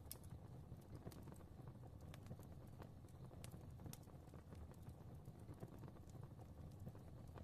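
Fire crackling softly: irregular small pops and snaps over a low, steady rumble of flames.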